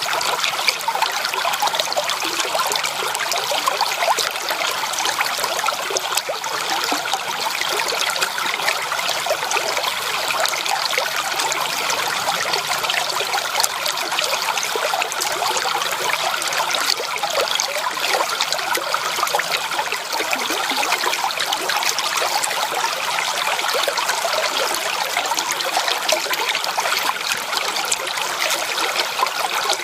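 Shallow creek water trickling and babbling over stones, a steady rushing splash with no let-up.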